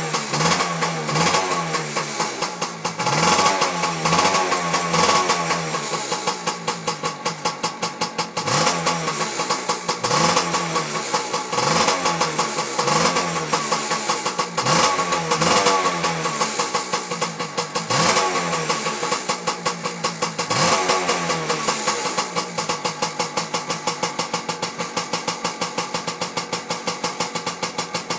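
Yamaha PW80's small two-stroke single-cylinder engine with an aftermarket tuning exhaust, revved in repeated short throttle blips. In the last several seconds it settles into an evenly pulsing idle.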